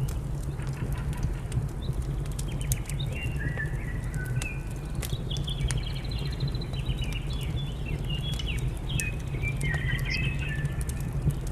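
Wood fire crackling in a fireplace with scattered sharp pops over a steady low rumble, while songbirds chirp in short rapid phrases for most of the stretch.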